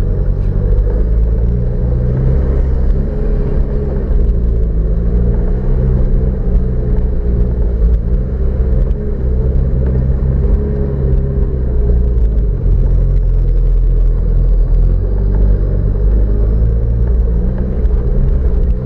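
Engine of an off-road 4x4 running steadily at low revs, its pitch wavering slightly over a deep rumble, as the vehicle drives down a dirt forest track.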